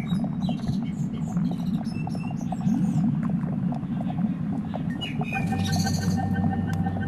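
Birds chirping over a dense low rumble. About five seconds in, a steady pulsing tone with a low hum beneath it comes in.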